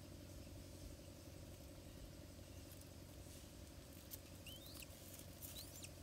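Near silence with a steady low hum. In the second half, a few faint, short chirps rising in pitch from a small bird.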